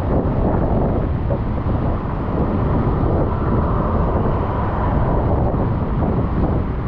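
Wind rushing and buffeting on the microphone of a moving bicycle, with street and road noise under it: a loud, fluctuating rumble with no clear tones.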